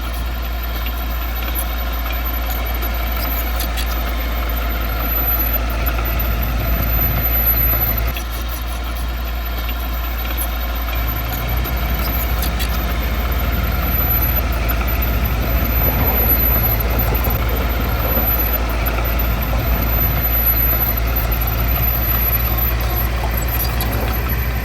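Heavy-equipment diesel engine running steadily, a continuous low drone with a brief dip about eight seconds in.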